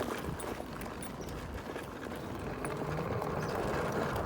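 Electric scooter riding noise: a low rumble of tyres and wind on the microphone, with light irregular knocks and rattles.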